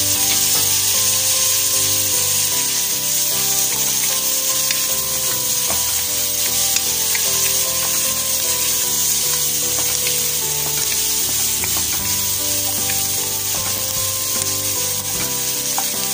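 Shredded chicken, garlic and onion frying in hot butter in a nonstick pan, sizzling steadily while a wooden spatula stirs and pushes them around with small scrapes and taps.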